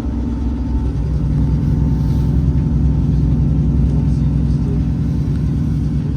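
Passenger train running at line speed, heard from inside the carriage: a steady low rumble with an engine hum whose note shifts about a second in.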